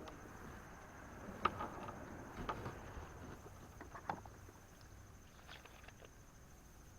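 Quiet creek-side ambience: a steady high insect drone with a few light knocks and splashes, the loudest about a second and a half in and again near four seconds.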